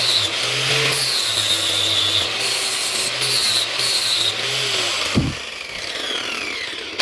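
A power tool working the steel of a knife blade in repeated passes of about a second each. A thump comes about five seconds in, and the sound then drops quieter with a falling whine.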